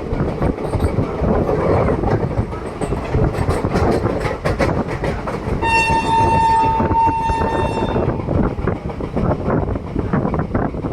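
ICF passenger train running, with a steady rumble and a run of clickety-clack from the rail joints. A little past halfway the locomotive horn sounds for about two seconds.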